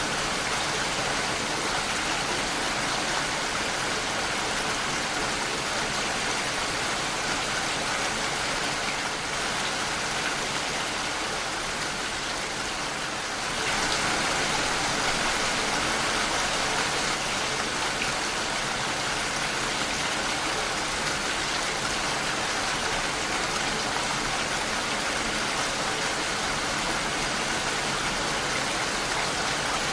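Steady rain falling against a window pane, a dense even patter. It eases a little around ten seconds in and picks up again at about fourteen seconds.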